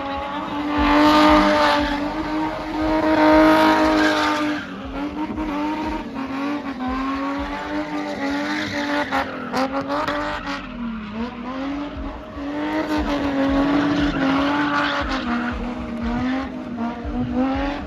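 Cars spinning in tight circles: engines held high in the revs with the pitch wavering and dipping briefly now and then, over the screech and scrub of spinning tyres.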